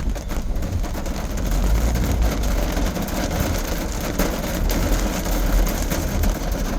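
A car driving in rain, heard from inside the cabin: a steady low engine and road rumble, with rain and water hitting the body as many small ticks.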